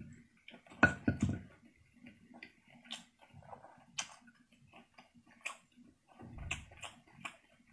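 Close-up eating sounds: scattered wet clicks and smacks of someone chewing braised meat and pulling it apart by hand. There is a louder cluster about a second in and another near the end.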